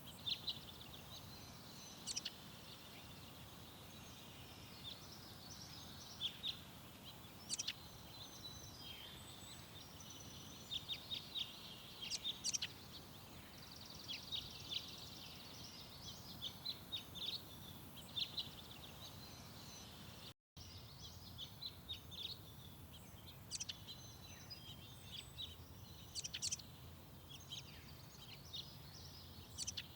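Garden songbirds chirping and calling: many short, high notes from several birds, scattered irregularly, over a faint steady low rumble of background noise. The sound cuts out for a split second about two-thirds of the way through.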